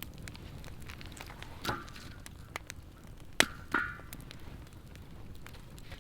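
Campfire crackling, with scattered sharp pops; the loudest come about three and a half seconds in.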